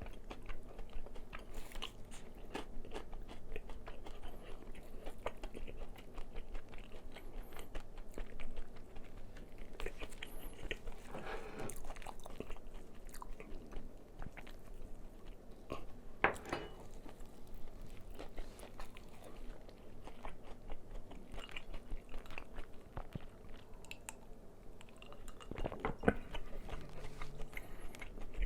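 Close-up crunching and chewing of crispy fried chicken: a steady run of crackling bites into the fried coating, with a few louder crunches along the way.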